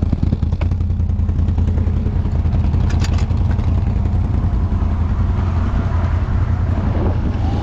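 Off-road vehicle engine running steadily at an even pace, with the low engine hum dominant throughout.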